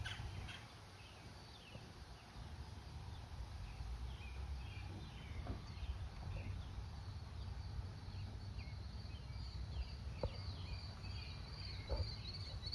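Faint outdoor ambience of insects: a steady high trill that grows stronger in the second half, with scattered short chirps and a low background rumble.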